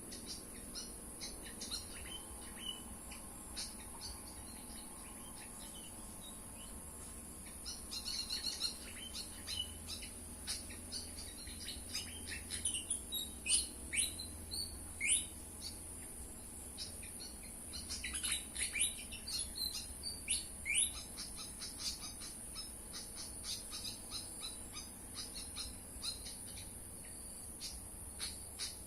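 Malaysian pied fantail calling: quick, sharp chips that sweep downward, coming in chattering clusters with the loudest bursts about halfway and two-thirds of the way through. A steady high-pitched hiss runs underneath.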